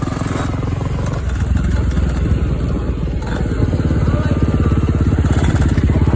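Dirt bike engine running on the move, a steady rapid pulsing that grows a little louder over the last few seconds.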